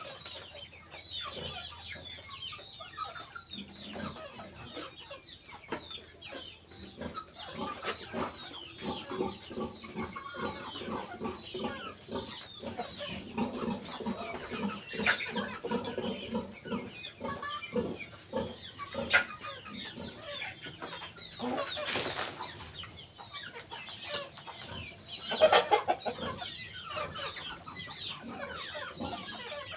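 Chickens clucking, with many short, high calls sliding downward in pitch throughout and a louder call about three-quarters of the way through.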